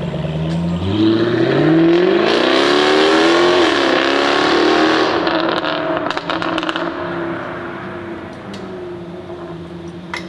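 Jaguar F-Type V8 R Coupe's 5.0-litre supercharged V8 accelerating hard, its note climbing through the revs with a brief dip in pitch about three and a half seconds in. Around six seconds in, as the note dies away, a run of exhaust crackles follows and the sound fades.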